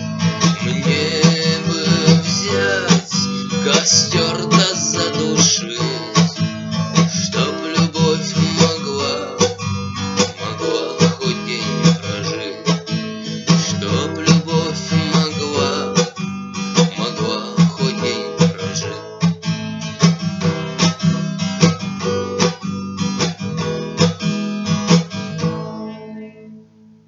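Acoustic guitar strummed in a steady rhythm, the instrumental close of a bard song, fading away near the end.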